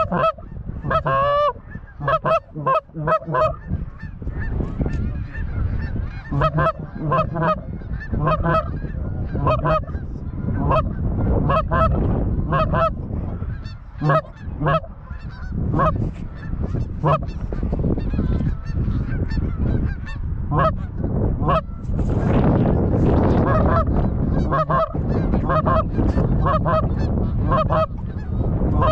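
Geese honking and clucking over and over, short sharp notes coming in quick runs, over a steady low rumble, with a brief rushing noise about 22 seconds in.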